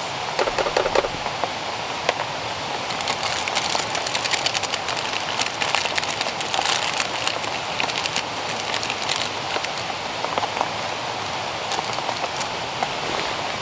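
Rain falling steadily, with many separate drops striking close by; the drops come thickest from about three to nine seconds in.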